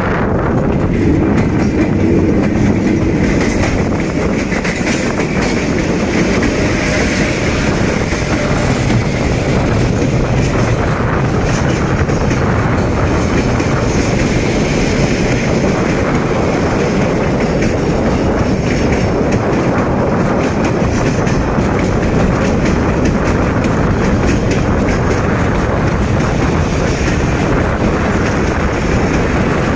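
D19E diesel-electric locomotive passing close by, then a freight train's wagons rolling past with a steady rumble and clickety-clack of wheels on the rails.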